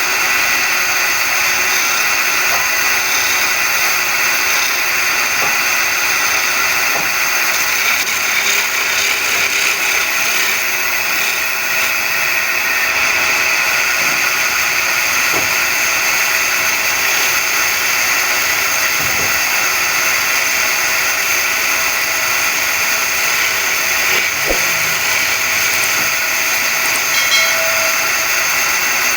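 Wood lathe running steadily while a wooden bed leg is turned, a constant high whine over a hiss with no break.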